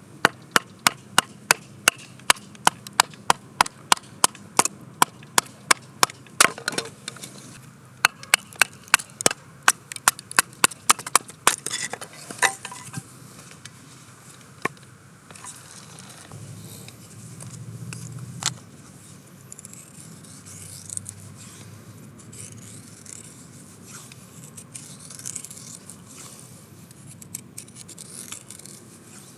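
Batoning firewood with a Bark River Bravo 1 knife: a wooden baton knocks sharply on the blade's spine about three times a second, splitting the wood. After about twelve seconds the knocks stop and give way to softer, uneven scraping and crackling as the knife shaves curls off a stick to make a feather stick.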